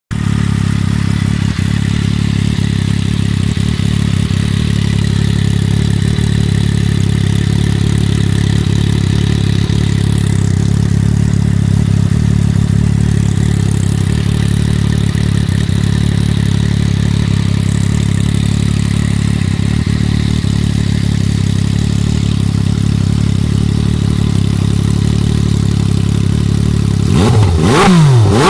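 MV Agusta Brutale 800's three-cylinder engine idling steadily through a full exhaust, then revved in several quick blips near the end.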